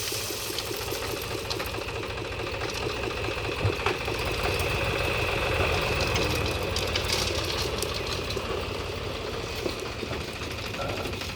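Mahindra tractor's diesel engine running steadily as its front loader works, getting a little louder in the middle, with a few sharp knocks over it.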